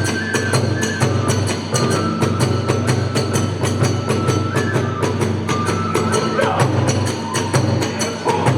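Kagura festival music: a bamboo flute holding and stepping between high notes over a fast, steady beat of drums and small hand cymbals.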